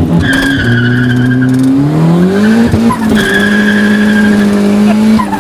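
Tires squealing in two long stretches of about a second and a half each as a turbocharged Honda D16Y8 Civic spins its wheels. The engine runs at high revs, its pitch climbing partway through and then holding steady.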